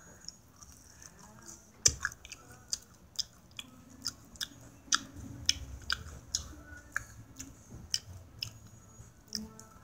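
Close-up eating noises of a person chewing Burger King fast food: sharp, wet mouth clicks and smacks, about two a second, starting about two seconds in.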